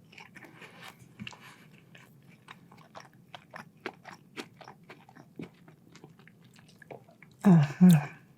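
Close-miked chewing of crispy chicken tenders: soft crunches and wet mouth clicks, several a second. Near the end, two short loud voiced sounds from the eater.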